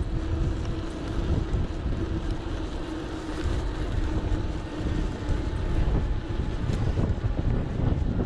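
Wind buffeting the microphone and road rumble from an electric bike being ridden. A steady low hum runs underneath and stops about five seconds in.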